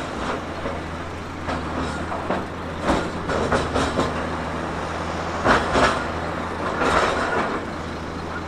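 Heavy earthmoving machine's diesel engine running steadily, with irregular clanks and knocks over it, the loudest a pair of them about five and a half seconds in.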